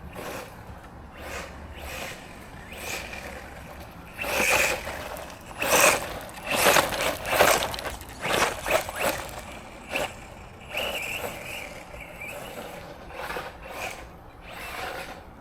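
Arrma Granite Grom brushless RC monster truck being driven in short bursts, its motor whining under throttle along with the rush of its tyres. The loudest bursts come about halfway through.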